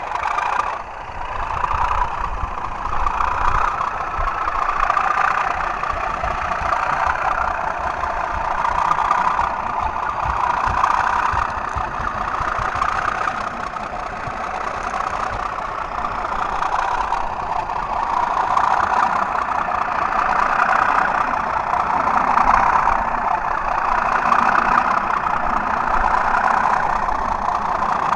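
Two model British Rail Class 37 diesel locomotives running double-headed, their sound units playing the Class 37's English Electric V12 diesel engine sound through small speakers. The engine sound runs continuously, swelling and easing in loudness every few seconds.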